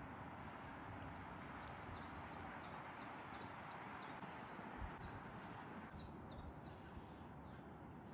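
Faint outdoor background hiss with a bird chirping repeatedly. The chirps are short, high, falling notes, about two a second.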